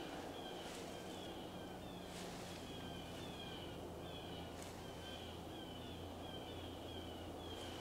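A bird calling repeatedly outside: a steady run of short, downward-slurred high notes, about two or three a second, over a low steady hum.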